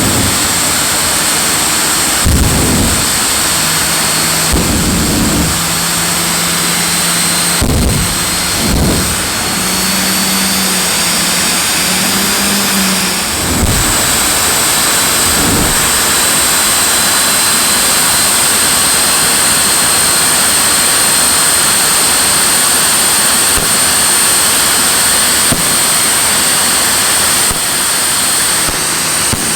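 J85 turbojet engine of a jet-powered Ford F650 show truck running loud and steady, a dense rushing noise with a high whine over it. A few low thuds come in the first half.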